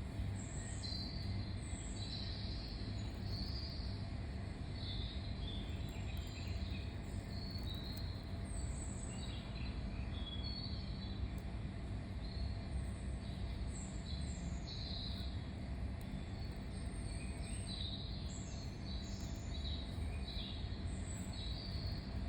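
Small birds chirping outdoors, many short quick calls scattered throughout, over a steady low background rumble.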